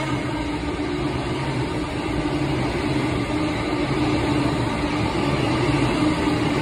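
Electric passenger train running past close by: a steady rumble of wheels on rails with a low hum.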